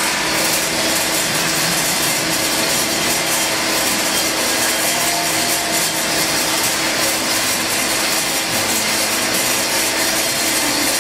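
Woodworking power tools running steadily in a home-building shop, a continuous rasping, sawing noise with a faint steady hum under it.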